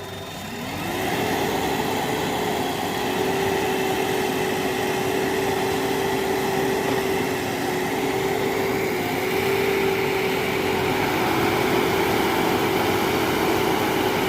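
Heavy vehicle's diesel engine revving up in the first second, then held at high, steady revs.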